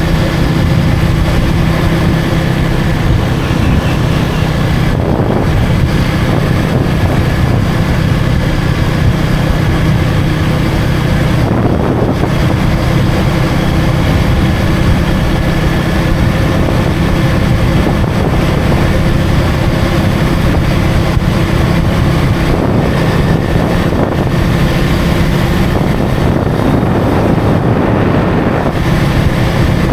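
KTM Duke 250 single-cylinder engine running at a steady cruising speed, its note holding one pitch, under wind rushing over the microphone.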